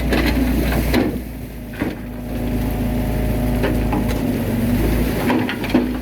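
Bulldozer's diesel engine running steadily under load, with a few clanks and knocks from the machine and the soil it is pushing.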